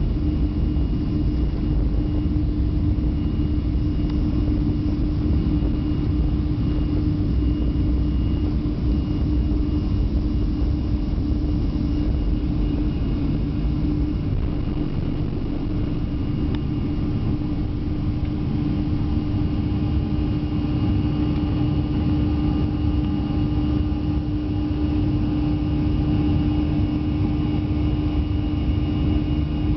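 Airliner engines at takeoff power heard from inside the passenger cabin: a steady rumble with a constant hum running through it.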